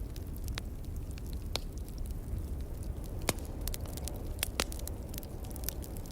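Log fire crackling, with scattered sharp pops (a louder one about three seconds in and two close together around four and a half seconds), over the steady low rumble of wind.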